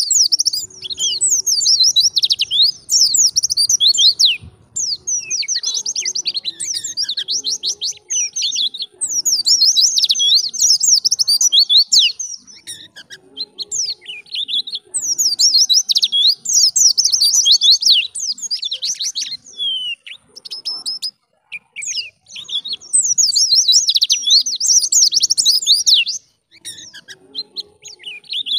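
White-eye (pleci) singing a fast, high twittering song in phrases a few seconds long, with short pauses between them.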